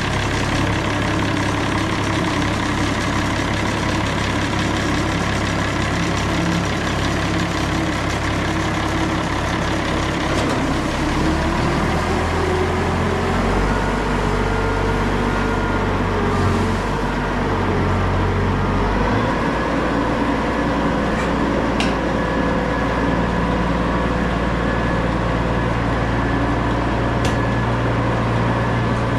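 Farm tractor engine running steadily while driving, its pitch shifting a few times around the middle as the engine speed changes.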